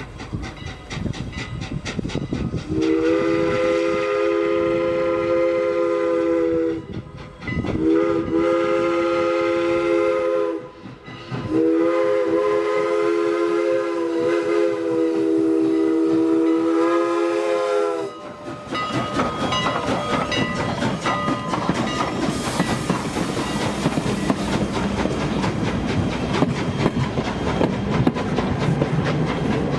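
Three-chime Pennsylvania-style steam whistle on Canadian National No. 89, a 2-6-0 steam locomotive, sounded in three long blasts, the last the longest. Then the train passes close by: a steady rumble with wheels clacking over the rail joints.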